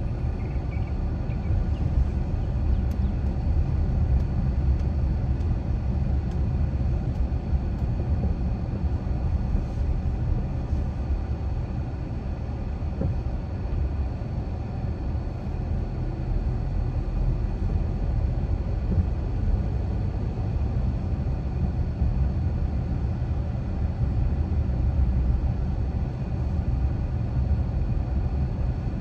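Car driving at a steady pace: a constant low rumble of tyres on the road and engine, with no sharp events.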